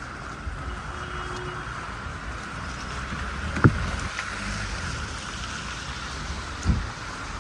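Steady night street ambience in falling snow: low traffic rumble and wind-like hiss, with two dull thumps, one about halfway and one near the end.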